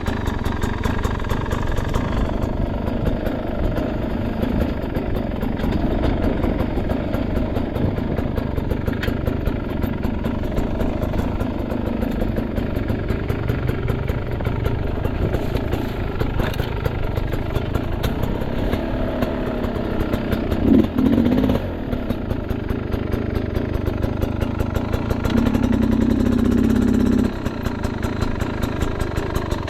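Enduro dirt bike engine running at low revs and chugging steadily as the bike picks its way along. About two-thirds of the way through there is a short sharp burst of throttle, and near the end a louder held rev for about two seconds that cuts off suddenly.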